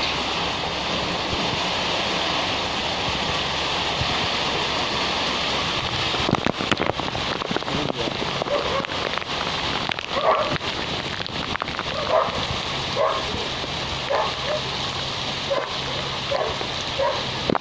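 Typhoon rain pouring steadily, and from about halfway through a dog barking repeatedly, about once a second.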